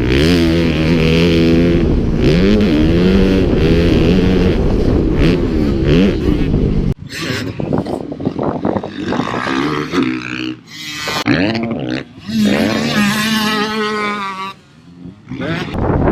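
Motocross bike engines revving hard, their pitch rising and falling as the riders go through the gears. About seven seconds in the sound cuts suddenly, and after that the engines come and go with quieter gaps.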